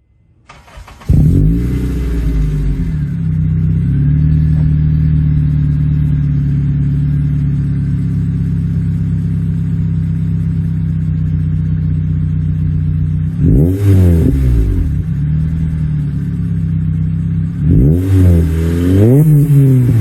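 Second-generation Honda CR-V's four-cylinder engine running through a PLM header with the catalytic converters removed: it cranks and starts about a second in, settles into a steady idle, is revved once briefly around the middle, then blipped several times in quick succession near the end.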